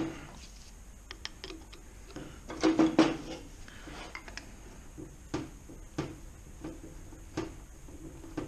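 Metal gearbox parts clinking and knocking as they are handled and worked apart during a manual gearbox strip-down. Scattered single clicks run through it, with a louder clatter about three seconds in.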